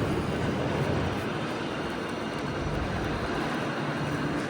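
Steady low rumble and hiss of a vehicle in motion, with a faint hum.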